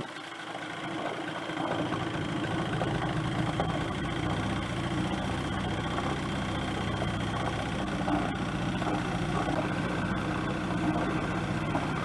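A motor vehicle's engine running steadily and evenly at low speed.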